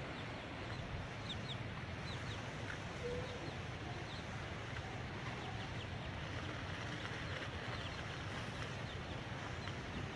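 Many short, high chirps from small birds over a steady outdoor background hiss.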